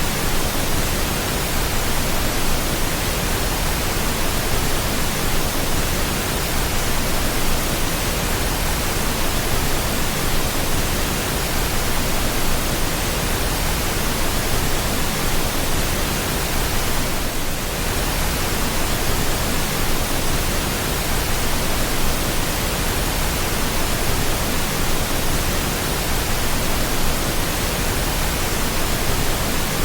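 Steady pink noise: an even, unbroken hiss with no tones or rhythm, dipping very slightly for a moment about halfway through.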